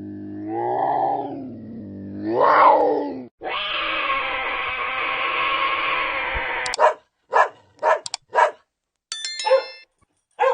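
Animal calls. First a drawn-out cry rises and falls twice, then comes about three seconds of steady dog growling, then a run of about six short, sharp dog barks and yips.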